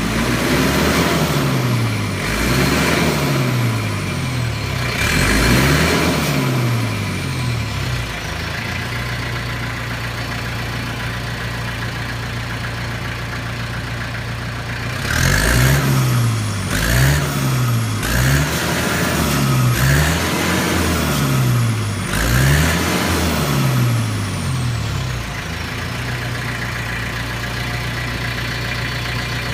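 Kubota MZ655 tractor's turbocharged diesel engine being blipped, a run of quick revs that rise and fall, settling to a steady idle about eight seconds in, then a second run of about six quick revs from about halfway before dropping back to idle. A high whistle falls away after each rev.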